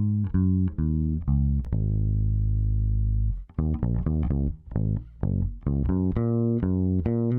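Electric bass guitar playing a riff of short plucked notes, run through a McDSP Analogue 202 tape emulation plugin. Partway through, one note is held for about a second and a half and stops, then a quicker run of notes follows.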